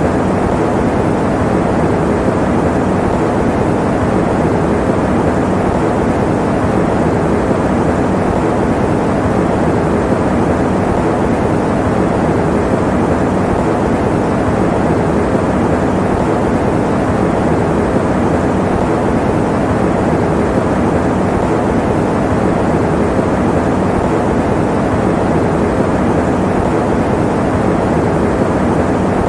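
Electric fan running at a steady speed: an even, muffled rush of air, deep and full with little hiss on top, unchanging throughout.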